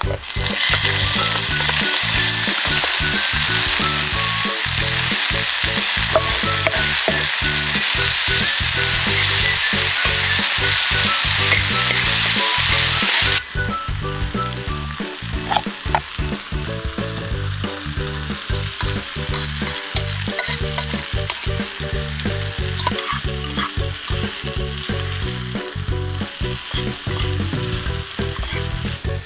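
Food frying in a pan, with a loud, steady sizzle. About halfway through it drops suddenly to a softer sizzle with scattered crackles. Background music plays underneath.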